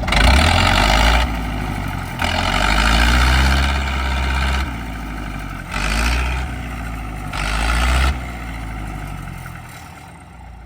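Rice combine harvester's engine revving hard in about four surges, straining under a heavy load as it tries to climb up out of the mud. The engine eases off near the end.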